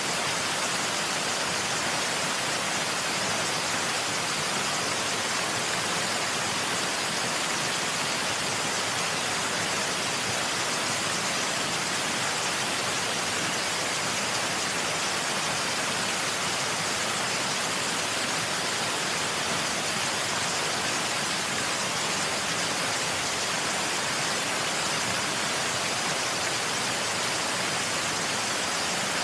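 Steady rushing of a waterfall: an even, unbroken hiss weighted toward the higher pitches, thin in the bass.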